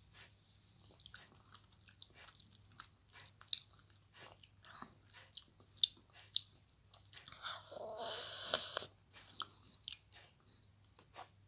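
A person chewing and sucking on a lemon wedge, with many small wet mouth clicks and smacks. About eight seconds in there is a louder rushing stretch lasting about a second.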